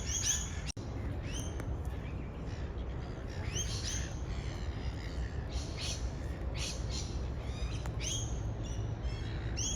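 Birds calling repeatedly, short chirps scattered throughout, over a steady low rumble.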